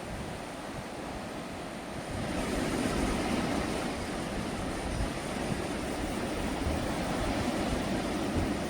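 Sea waves washing and surging against rocky shore, a steady rushing that swells louder about two seconds in.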